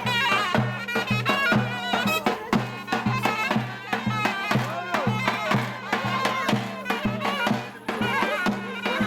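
Turkish folk dance music: a reed wind instrument plays a wavering, ornamented melody over a steady drum beat.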